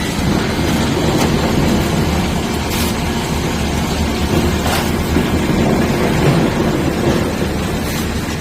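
Steady low mechanical rumble, as of heavy machinery running, with a couple of faint clicks.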